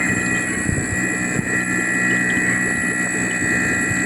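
Small airbrush compressor running steadily with a whine and hum, its air bubbling strongly through water: a test of its air output after the pump gasket was reseated.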